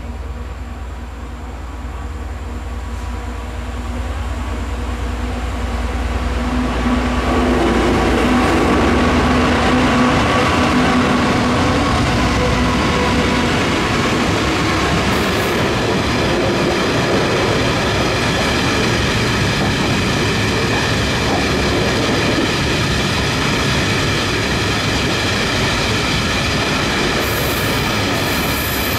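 Diesel-hauled freight train approaching and passing. A low locomotive rumble builds over the first several seconds, then the wagons roll by as a loud, continuous rolling noise with several steady high-pitched tones running over it in the second half.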